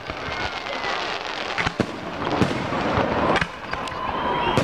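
Aerial firework shells bursting: several sharp bangs at irregular intervals over continuous noise.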